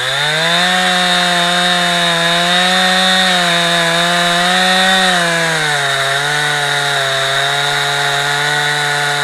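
Two-stroke chainsaw mounted in an Alaskan-style chainsaw mill, revved up to full throttle and held there as it rips lengthwise through a log to cut a plank. Its pitch drops a little about halfway through as the cut loads the engine.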